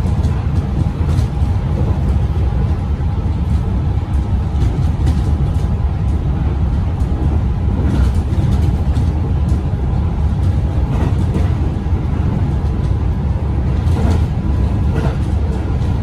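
Melbourne suburban electric train heard from inside while running, a steady low rumble with faint steady tones and scattered clicks from the wheels and track.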